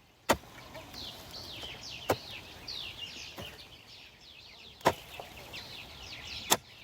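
Five sharp strikes, about one every second and a half, as a farm hoe chops into the soil. Small birds chirp throughout.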